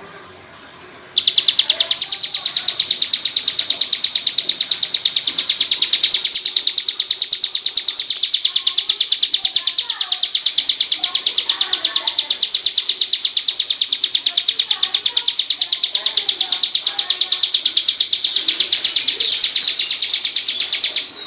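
A bird's high, rapid, evenly pulsed trill, held steadily for about twenty seconds, starting abruptly about a second in and cutting off near the end: a recorded training song (masteran) for white-rumped shamas.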